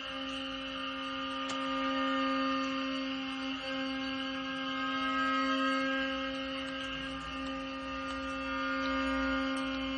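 Korean traditional chamber ensemble holding one long steady note, a drone-like sustained tone with a rich buzzy edge. It is briefly re-sounded twice, about a third and two-thirds of the way through.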